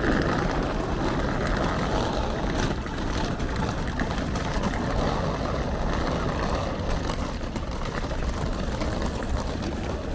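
Street traffic: vehicles running past with a steady rushing rumble that swells and fades.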